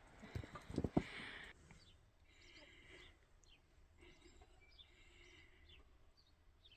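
Wild songbirds chirping and singing faintly in short repeated phrases. In the first second or so there are a few soft thumps with a rustle.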